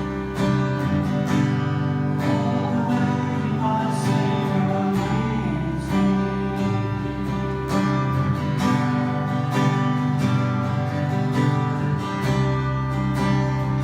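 Music led by a strummed acoustic guitar, chords held and strummed in a steady rhythm.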